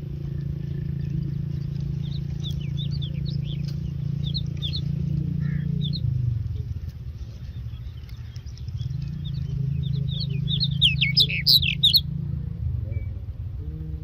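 Thin, high-pitched chirping of common (Indian) myna chicks in the nest, rising to a loud flurry of calls about eleven seconds in, as when they beg for food. A low steady hum runs underneath, fading out midway and coming back.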